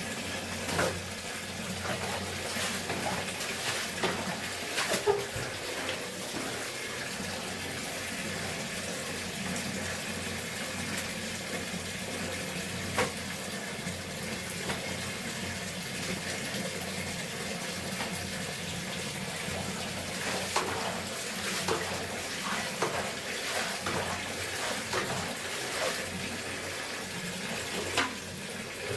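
Water running steadily, as from a tap filling a bucket or tub during hand-washing of laundry, with scattered short splashes and knocks.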